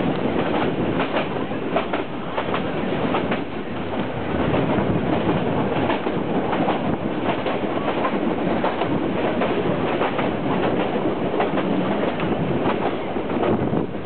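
Nilgiri Mountain Railway train running on its metre-gauge line, heard from an open coach doorway: a steady rumble and rattle of the coaches, with frequent clickety-clack of the wheels over the rail joints.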